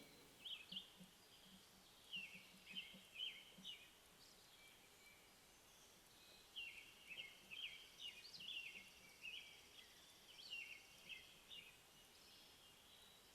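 Faint songbirds chirping in short groups of quick, high, down-slurred notes, with pauses between the groups.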